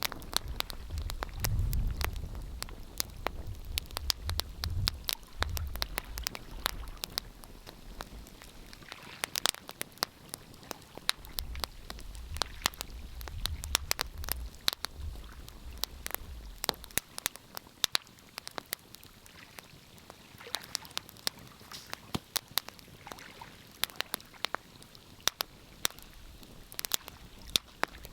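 Wood fire crackling, with frequent irregular sharp pops and snaps over a soft hiss. A low rumble swells and fades twice, near the start and again about halfway through.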